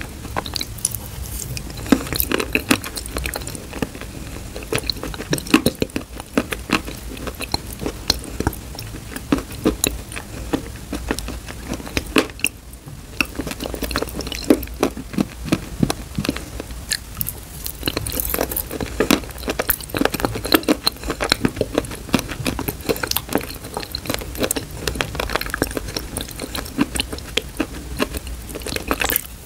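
Close-miked chewing and wet, sticky mouth sounds of someone eating soft clay paste off a spoon, made up of dense irregular clicks and smacks, with a short pause about a third of the way through.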